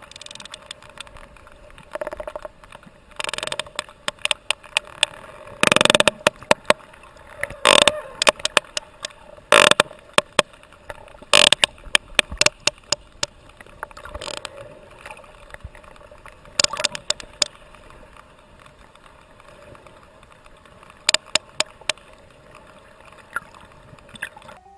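Sperm whale clicks recorded underwater: a long series of sharp clicks at irregular intervals, some much louder than others, the strongest coming between about five and twelve seconds in, over a steady low hum.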